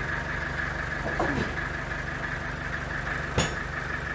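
Sawmill machinery running steadily with a constant hum. A short falling squeal comes a little over a second in, and a single sharp knock about three and a half seconds in.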